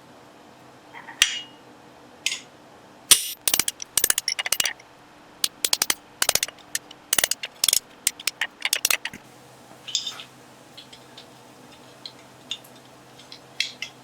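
Metal on metal at the forge: single sharp ringing strikes about a second and two seconds in, then clustered runs of rapid clinks and taps until about nine seconds in, with a few scattered clinks after.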